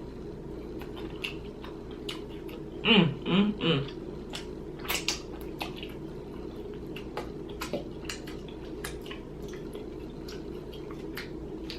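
Boiled crawfish being peeled and eaten: scattered small shell clicks, wet squishing and slurping. There is a short three-note hum of enjoyment about three seconds in, over a steady low background hum.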